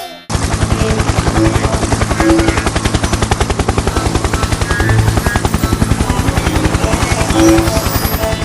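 A logo intro jingle run through a heavy distortion and vibration effect, turned into a loud, harsh, rapid chopping pulse with faint traces of the melody. It starts abruptly and cuts off sharply at the end.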